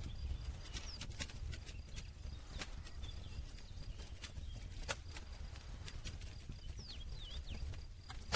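Wood campfire crackling, with irregular sharp pops and snaps over a low steady rumble of burning. One louder pop comes about five seconds in.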